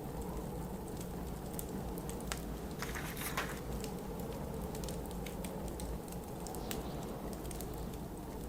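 Wood fire crackling with many small sharp snaps over a steady low rumble of blizzard wind, with a brief louder rustle about three seconds in.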